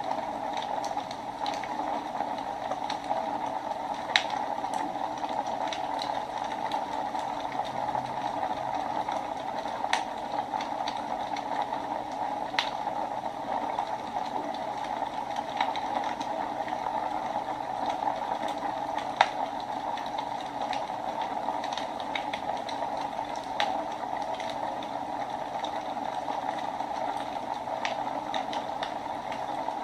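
Wood fire burning in a fireplace: a steady hiss of flames with scattered crackles and occasional sharp pops, the loudest about four seconds and nineteen seconds in.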